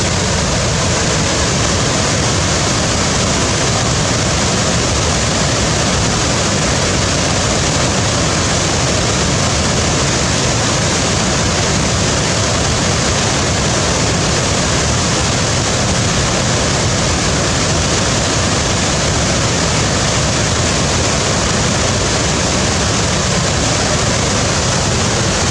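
Waterfall: a loud, steady, unchanging rush of falling water.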